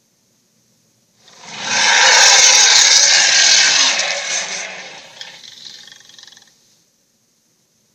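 A dragon sound effect: a harsh, raspy rush of noise with no clear pitch. It swells in about a second in, holds for a couple of seconds, then trails off over a few more seconds.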